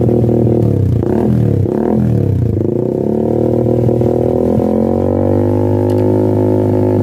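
Honda CBR 150R single-cylinder engine running through a CLD racing aftermarket exhaust, held at steady revs in a deep drone. The revs dip and pick up twice between about one and two and a half seconds in.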